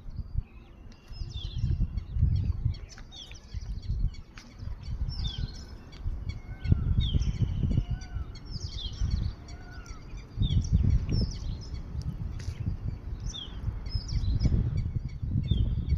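Several birds chirping and calling, mostly short, high, falling notes, with a run of lower sliding calls around the middle. Gusts of wind rumble on the microphone, swelling and fading throughout.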